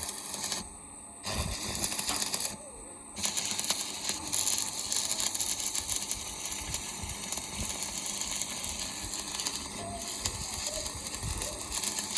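Electric arc welding: a steady crackling sizzle as a weld bead is run on the plough's metal. The arc breaks off twice in the first three seconds, then burns on without a break.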